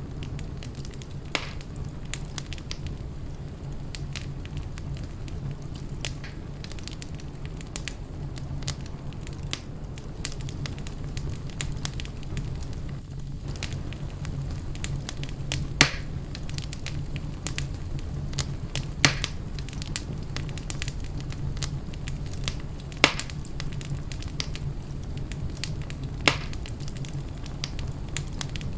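Wood fire burning in a fireplace, crackling continuously over a low steady rumble, with a handful of sharper pops scattered through.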